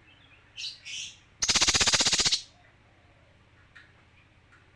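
Male cucak kinoi singing: two short high notes, then a loud, very rapid rattling trill lasting about a second, the fast 'tembakan' burst.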